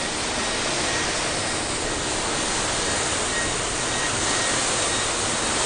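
Rainwater leaking in from heavy rain and pouring down in a steady, unbroken rush of falling and splashing water.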